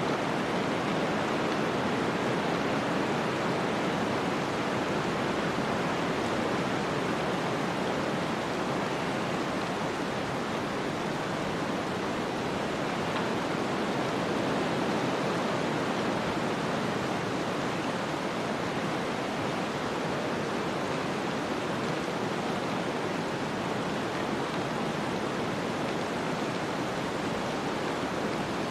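Snowstorm wind blowing as a steady, dense rushing noise that swells and eases only slightly.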